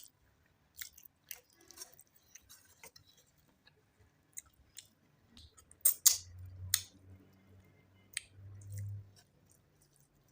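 Close-miked chewing and mouth sounds of someone eating chicken curry with rice: scattered wet clicks and smacks, the loudest about six seconds in.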